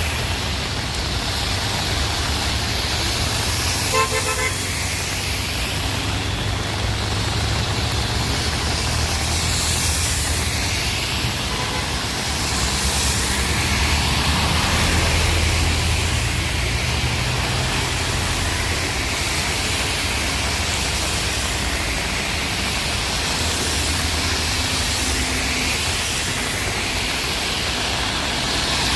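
Road traffic in heavy rain and wind: a steady wash of noise with a deep rumble, and a short car horn toot about four seconds in.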